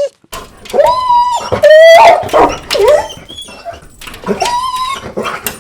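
Dogs whining and crying: several high, drawn-out whimpers that rise and fall in pitch, one long held whine about two seconds in, with yips and short cries overlapping.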